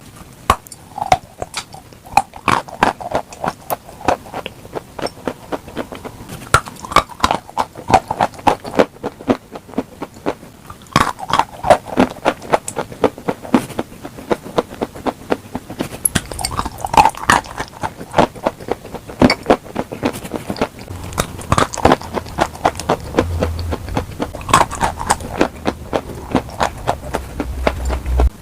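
Crunchy food being bitten and chewed close to the microphone: a dense run of sharp crunches and clicks with moist mouth sounds, thinning briefly near the middle. A low hum comes in during the last third.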